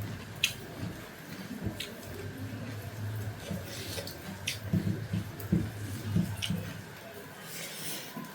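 Close-miked chewing and wet mouth sounds of someone eating a meal of fried pork and rice, with a few sharp smacking clicks and a run of soft chewing strokes about two a second in the second half.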